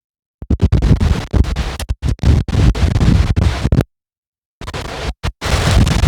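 Storm-force wind gusts buffeting the microphone: a loud, rumbling rush that keeps breaking up, with the sound cutting out completely twice, at the start and about two-thirds through.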